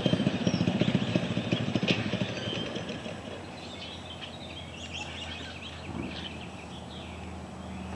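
Predator 6.5 hp single-cylinder engine running through its new custom exhaust with a deep, even thump. About two and a half seconds in it drops to a quieter steady hum, and faint short chirps come through over it.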